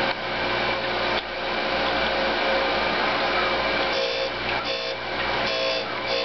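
Surface grinder running, its abrasive wheel grinding a motorcycle thrust washer down to thickness, a steady machine hiss and hum. From about four seconds in, a ringing tone comes and goes in short spells.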